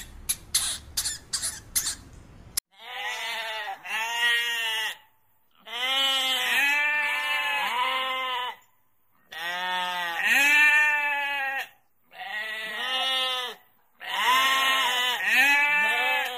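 Goat bleating: five long wavering calls, each a run of rising-and-falling notes, with short pauses between. A few short sharp squeaks come before the first call.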